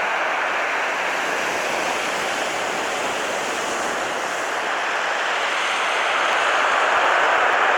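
Sea surf washing against the shore in a steady rush that swells a little near the end.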